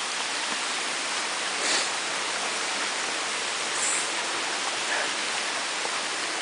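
Waterfall and stream water rushing in a steady, even roar, with a couple of brief faint knocks about two and four seconds in.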